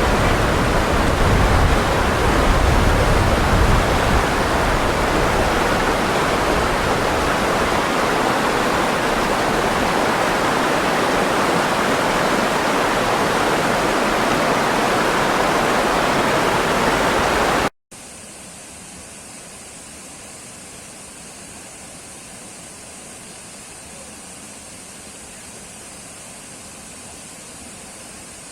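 Loud, steady rushing of water, a dense even roar. A little over halfway through it cuts off abruptly and a much quieter steady hiss takes over.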